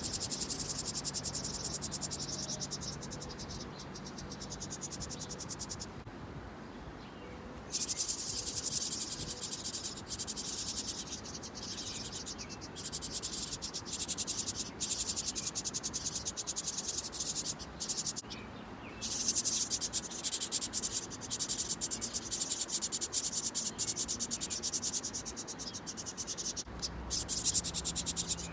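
Insects trilling in fast, high-pitched pulses that break off twice, briefly, before resuming.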